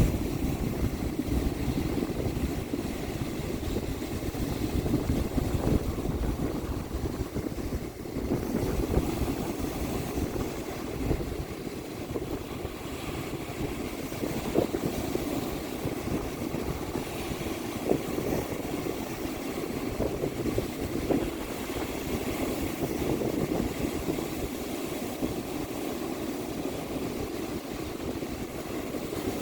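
Ocean surf breaking and washing on a beach, a steady rush that swells and eases. Wind buffets the microphone throughout, adding a fluttering low rumble.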